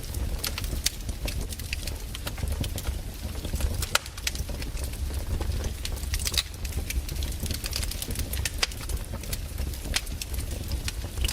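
Wood fire crackling: irregular sharp pops and snaps from burning firewood, several a second at times, over a steady low rumble.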